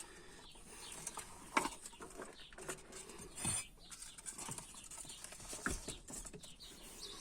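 Scattered plastic clicks, knocks and rustles of the BMW E39 fuel pump assembly being handled, as its two retaining tabs are pressed and the pump is lifted out of its bracket.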